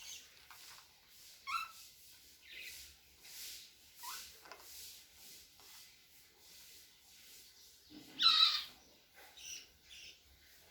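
Cockatiel calling in short, scattered chirps and whistles, with one louder, longer call about eight seconds in.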